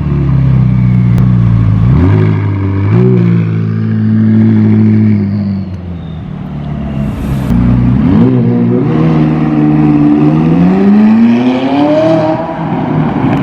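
McLaren 540C's 3.8-litre V8 engine running hard, its pitch stepping up and down with the revs, quieter about six seconds in. It then rises in one long rev near the end.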